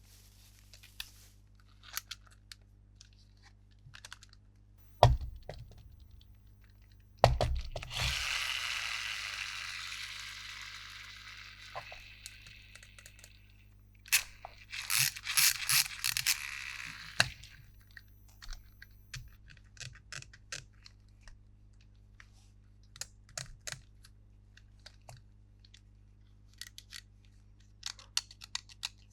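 Plastic toys being handled: scattered clicks and taps, two thumps, and after the second a rushing noise that fades away over several seconds. A burst of rattling and crinkling comes about halfway through.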